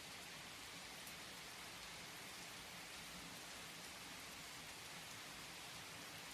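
Steady, soft rainfall, an even patter of raindrops.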